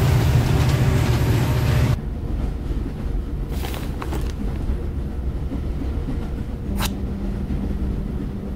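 Steady low rumble of a train in motion, louder for the first two seconds and then settling to an even running sound, with a couple of brief swishes over it.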